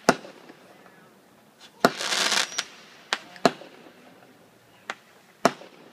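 Fireworks going off: six sharp bangs spread unevenly through the few seconds, with a half-second hiss about two seconds in.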